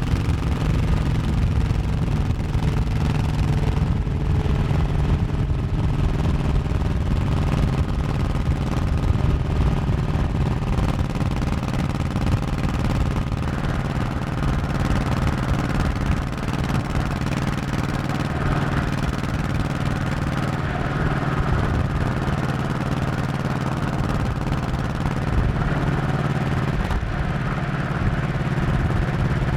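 Honda 1100cc V-twin motorcycle engine running steadily as the bike rides along, with a slight dip in level about halfway through.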